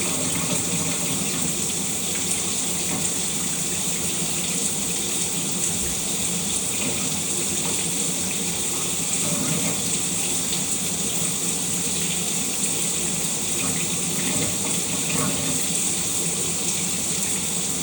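Shower running: a steady, even spray of water hissing down.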